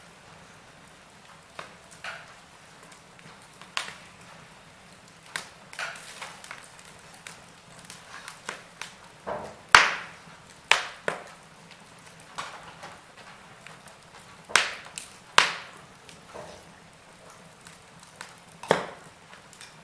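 Wood fire in a fireplace crackling: irregular sharp pops and snaps from the burning logs over a faint steady hiss. The loudest pop comes about ten seconds in, and strong pops follow at irregular gaps toward the end.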